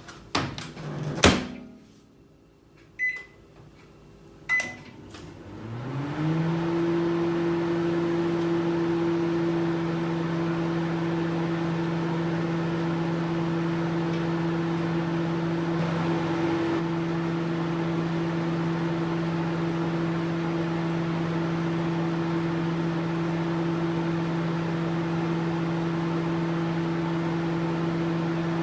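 Microwave oven: two sharp knocks, then two short keypad beeps. About five seconds in it starts running: a low hum rises briefly in pitch and settles into a steady hum.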